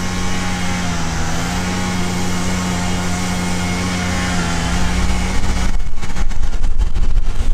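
Honeybees buzzing close to the microphone over an open hive: a steady hum that dips slightly in pitch now and then. About three-quarters of the way through the hum gives way to low rumbling and knocks.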